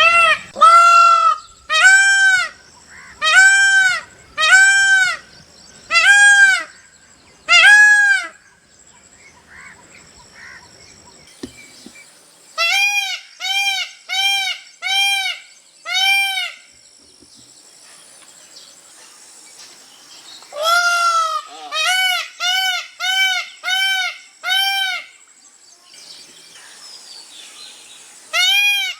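Indian peafowl (peacock) calling loudly, in runs of six to eight calls, each call rising then falling in pitch, with gaps of a few seconds between the runs.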